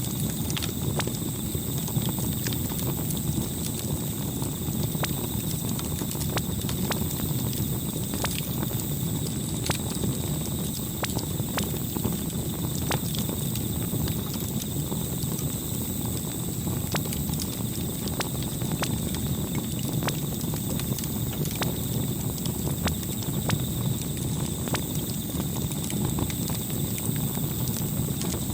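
Campfire crackling: irregular sharp pops and snaps over a steady low rush of burning.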